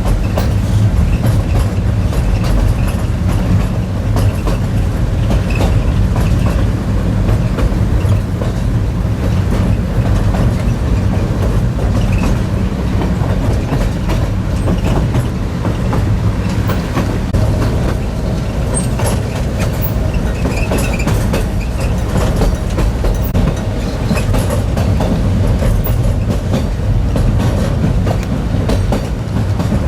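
White Pass and Yukon railroad train rolling steadily along the track: a continuous low rumble with faint clicking of the wheels over the rails.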